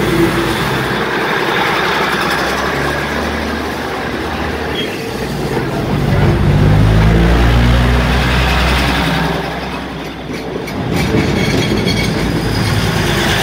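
Passenger train carriages rolling past at very close range, with a continuous running noise. A deeper low rumble swells and is loudest from about six to nine seconds in, then eases off.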